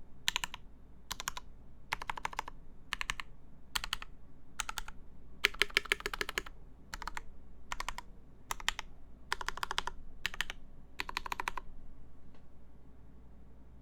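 Mechanical keyboard typing on a CFTKB Discipline v2 with Gateron Ink switches lubed with Krytox 205g0, 70g springs, GMK keycaps, a full aluminum plate and an acrylic case. The keys are struck in quick runs separated by short pauses, and the typing stops about two seconds before the end.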